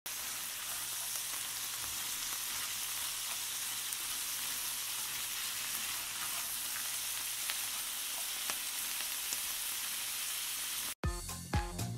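Whole crayfish sizzling steadily as they fry in a cast-iron skillet, with a few faint clicks of metal tongs turning them. The sizzle cuts off suddenly about eleven seconds in, and music with a beat starts.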